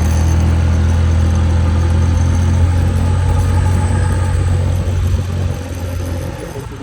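Motor scooter engine working hard up a steep hill, a steady low drone that eases off about five and a half seconds in as the top of the climb is reached.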